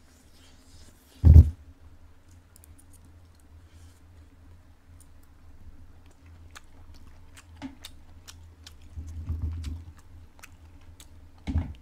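A person chewing pieces of braised chicken close to the microphone: many small wet mouth clicks and smacks over a low steady hum. A loud thump comes about a second in, and a shorter one comes near the end.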